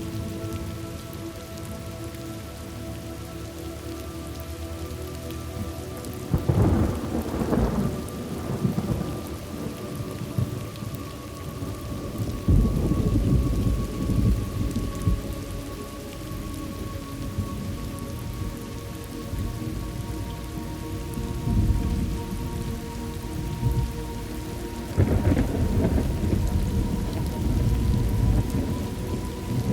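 Thunderstorm ambience: steady rain falling, with rolling thunder rumbles about six seconds in, again about twelve seconds in, and near the end.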